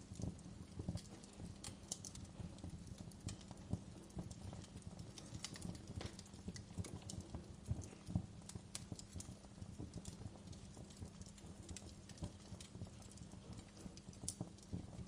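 Wood fire crackling, with irregular snaps and pops over a steady low rumble.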